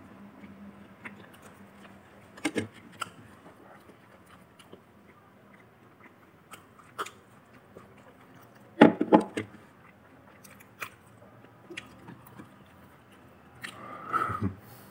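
Close-miked eating of crispy fried chicken strips: biting and chewing with scattered crunchy clicks, and a louder cluster of them about nine seconds in. A brief vocal sound near the end.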